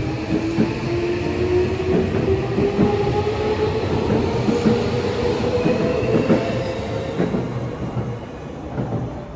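Electric commuter train heard from inside the car as it accelerates: the traction motor whine rises slowly and steadily in pitch over the clicking and knocking of the wheels on the rails. The sound eases off near the end.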